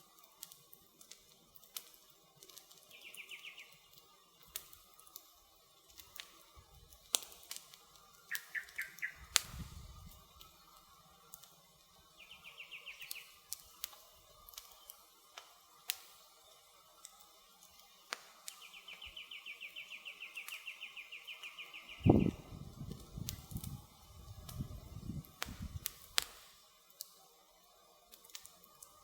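Campfire crackling with scattered sharp pops, while a small bird sings several short trills and one longer, rapid trill around two-thirds of the way through. A loud low thump comes right after the long trill, followed by a few seconds of low rumbling thuds.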